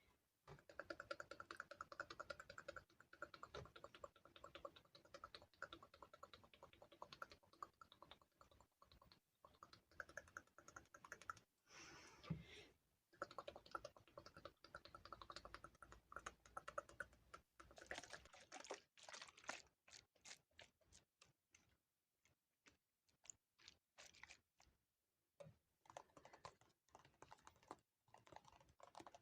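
Rapid, light, close-miked tapping and clicking, an ASMR trigger, in long fast runs broken by short pauses.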